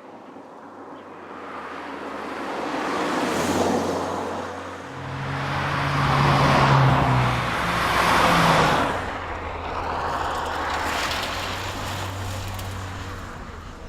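BMW Z3 sports car driving past under power: engine note and tyre noise build, peak about halfway through and fade again, with the engine pitch stepping down partway as it changes gear.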